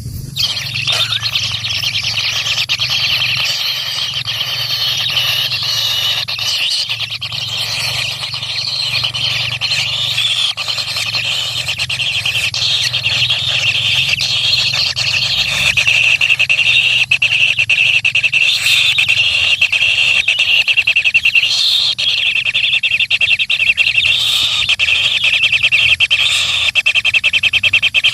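Baby birds calling non-stop in a high-pitched, rapid chorus of begging calls, growing louder about halfway through, over a steady low hum.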